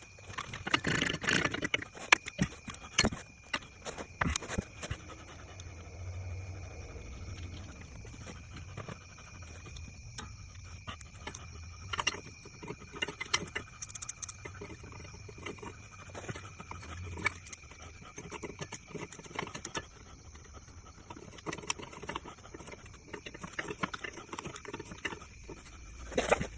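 Hand tools and metal parts clicking and knocking as a new starter motor is bolted into place under a truck. The clicks come thick and fast in the first few seconds, then more sparsely over a steady low hum.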